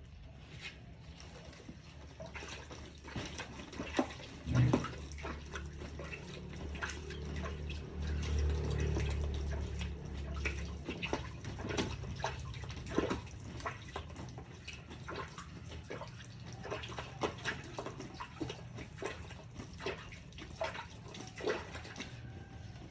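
Water splashing and dripping as a staghorn fern is watered, with many scattered drips and splats. A low hum swells in from about four seconds in and fades out around eleven seconds.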